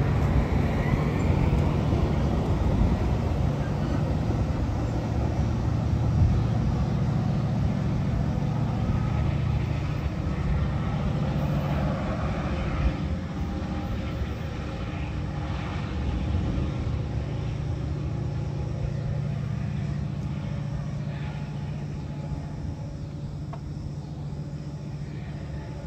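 Metra bilevel commuter train pulling away, its diesel locomotive running with a steady low drone over the rumble of wheels on the rails. The sound slowly fades as the train recedes.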